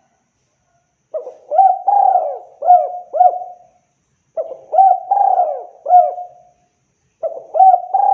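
Spotted dove (tekukur) cooing: three repeated phrases of several hoarse coos each, the first starting about a second in and each following about three seconds after the last.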